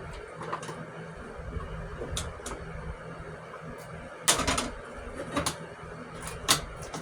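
A homemade window panel for a portable AC vent being handled and fitted in a window frame: a few sharp knocks and clatters, the loudest just after four seconds in, with single knocks about a second apart after it.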